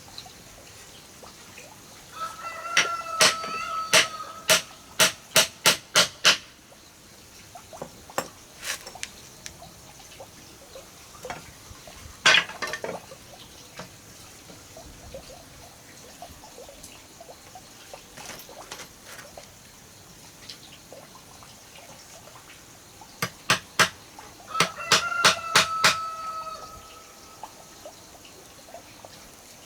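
A rooster crows twice, each crow held for about two seconds, over quick runs of sharp knocks at about three a second, with a few single knocks in between.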